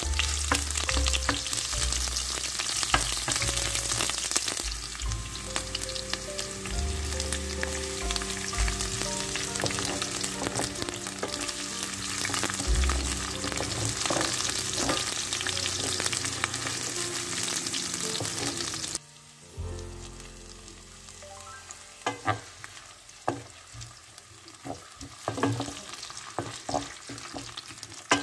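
Onion and peppers sizzling in hot oil in a stainless steel pan, stirred with a wooden spatula. About 19 seconds in, the sizzle drops suddenly to a quieter frying with scattered taps and scrapes of the spatula against the pan.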